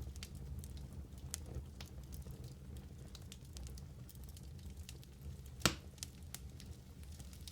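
Wood fire burning in a fireplace, crackling with scattered sharp pops over a low steady rumble, one pop louder than the rest a little before the end.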